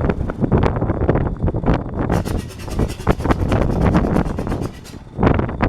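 Renault 6Q-10 air-cooled inverted inline-six aero engine of a Nord 1002 running at low speed on its first run. Its firing pulses are uneven, settle into a regular rapid beat for a few seconds in the middle, and dip briefly near the end.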